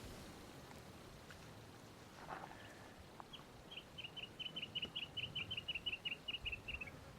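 A small songbird singing a rapid trill of about twenty short, high chirps, five or six a second, dropping slightly in pitch at the end.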